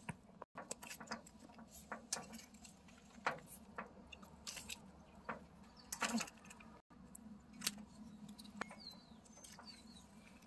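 Faint, scattered small clicks and rustles, with a few faint bird chirps near the end.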